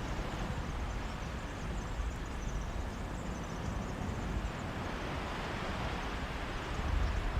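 Mediterranean sea waves washing on a beach in a steady breeze: a continuous rushing noise over a fluttering low rumble of wind on the microphone.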